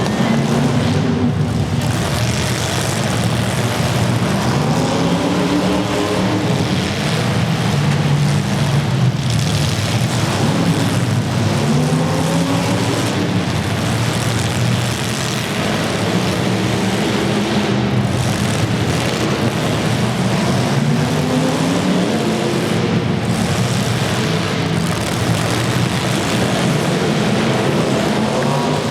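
Several demolition derby car engines revving at once, their pitches rising and falling over each other in a loud, continuous din.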